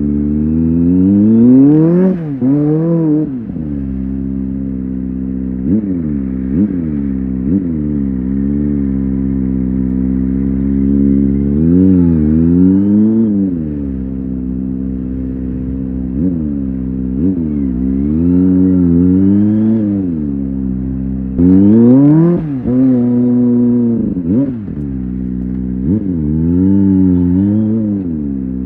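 Kawasaki ZX-25R SE's 249 cc inline-four engine, high-revving and screaming, accelerating in repeated runs. Each run climbs in pitch and drops sharply at a gear change, with several slower rev swells up and down in between.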